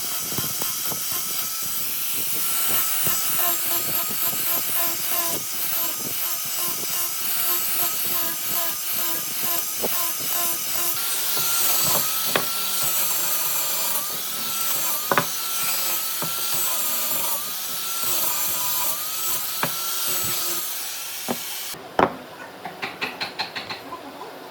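A power tool working wood, its motor whine dipping in pitch again and again as it bites, over a steady hiss of cutting or sanding. Near the end it stops abruptly and a quick, even tapping follows, about three taps a second.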